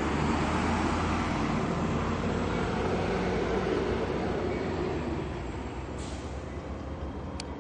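Diesel-hauled passenger train passing close by: the locomotive's engine and the wheels on the rails rumble steadily, easing a little about five seconds in. A brief click near the end.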